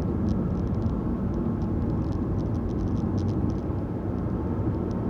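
A car driving along a road, heard from inside: a steady rumble of engine and tyres, with scattered small ticks and rattles.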